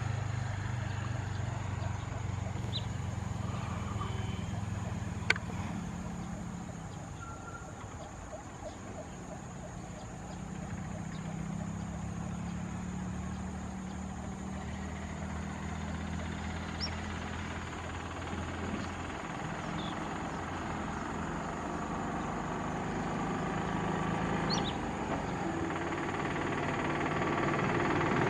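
Low steady engine hum, rising and falling, with a single sharp click about five seconds in. A few faint, short, high bird calls come through now and then, and the hum grows louder near the end.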